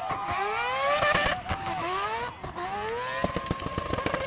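Mazda RX-7 FD's four-rotor 26B rotary engine revving hard while drifting: repeated climbs in revs, a brief lift around the middle, then held high revs with a rapid crackle of exhaust pops in the last second.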